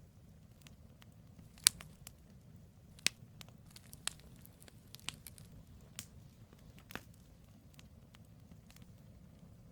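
Campfire of burning firewood logs crackling, with sharp pops about once a second over a low steady rumble; the loudest pop comes a little under two seconds in.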